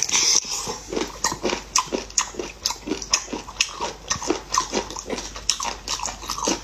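Wet, smacking chewing and biting of sea cucumber flesh at close range: quick sharp mouth clicks, about four a second.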